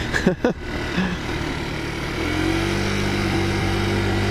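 Taotao 50cc four-stroke scooter engine running under way, with wind noise; about two seconds in, its note settles into a steady drone.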